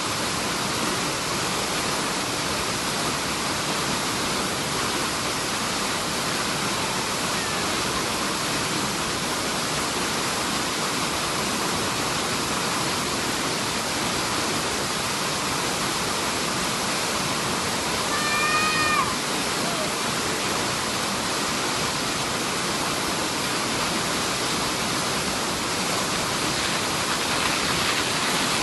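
Waterfall rushing steadily. About two-thirds of the way through comes one short, high, pitched call.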